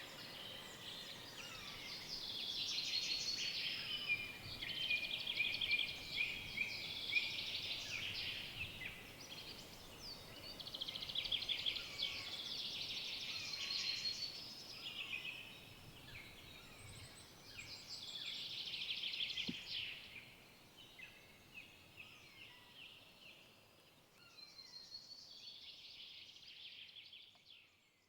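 Forest songbirds singing: about five bursts of fast trilled and chirping song, each a few seconds long, over a faint steady forest background, fading out at the very end.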